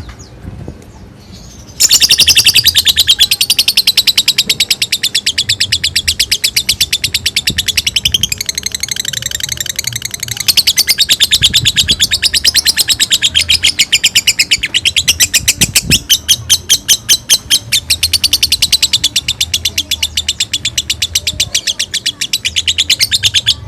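Lovebird ngekek: a loud, long, unbroken chatter of rapid repeated high notes, starting about two seconds in and running on without a pause. Its pattern shifts briefly partway through.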